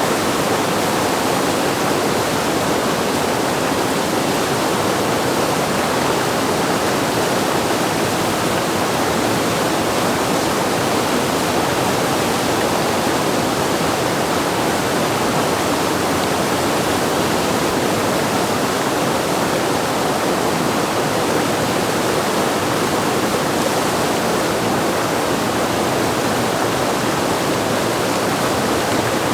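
Steady rush of fast whitewater from a standing river wave at high flow, an even, unbroken roar of water.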